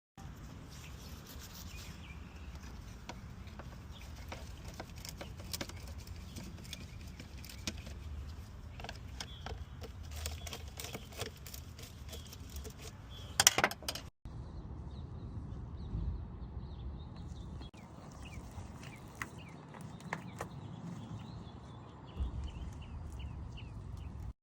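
Scattered clicks, knocks and light rattles of hand work on engine-bay parts as the air intake box is loosened and moved, with one loud sharp click about 13 seconds in.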